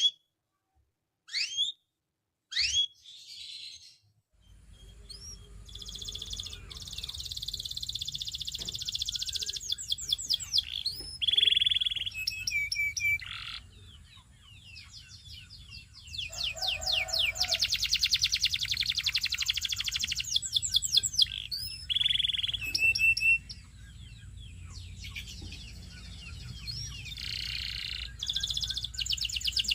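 Domestic canary singing: a few single chirps, then long fast trills and rolls of rapidly repeated high notes, broken by short pauses. A low steady hum runs under the song from about four seconds in.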